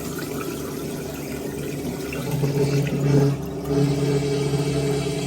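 1958 Hotpoint Empress washing machine's drain pump running, pumping the dirty wash water out through the hose into a sink: a steady motor hum under gushing water, louder from about two seconds in.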